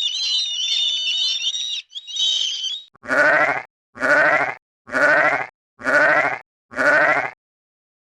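High, dense bird chirping for roughly the first three seconds, then five evenly spaced bleats from a sheep or goat, each about half a second long, about one a second, with a quavering pitch.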